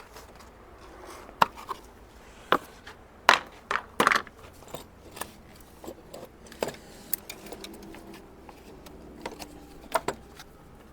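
Irregular clicks, taps and light rattles of plastic and metal as a car's fuse box is worked loose and lifted out by hand.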